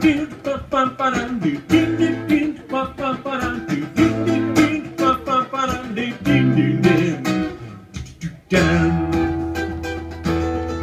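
Acoustic guitar played in an instrumental passage between verses: rhythmic plucked and strummed chords over a steady bass, with a short break a little past eight seconds before a held chord rings on.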